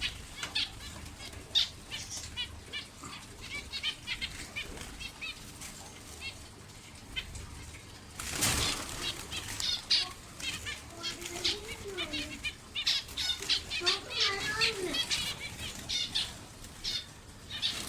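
A small escaped pet bird's wings flapping in repeated short flurries as it flies loose and is chased, with a louder rush of wingbeats or rustling about eight and a half seconds in.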